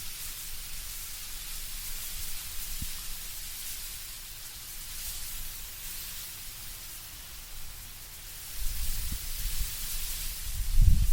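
Wind blowing through autumn trees, the leaves rustling in a steady soft hiss. A low rumble of gusting wind builds near the end.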